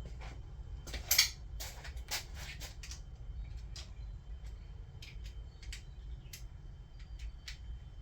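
Irregular light metallic clicks and taps from a hand tool hand-tightening the 10 mm cam cap bolts on a Toyota 2JZ cylinder head, a quick cluster about a second in, then sparser clicks, over a low steady hum.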